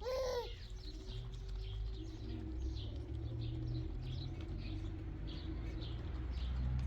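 Small birds chirping over and over in short high notes, with one louder arched call right at the start and a low steady rumble underneath.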